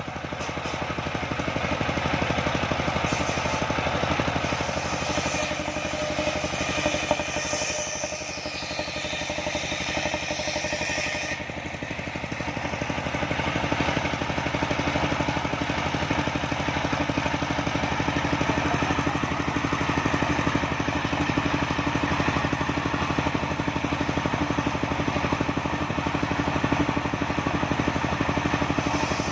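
Engine-driven homemade circular saw rig running steadily. Its higher-pitched sound drops away suddenly about eleven seconds in, leaving the engine running on evenly.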